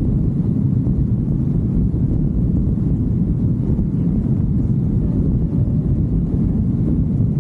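Steady low rumble of wind and engine noise on a moving motorcycle.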